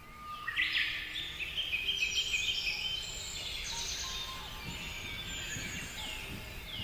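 Several small birds chirping and singing together, a dense run of high, quick notes that starts about half a second in, over soft background music.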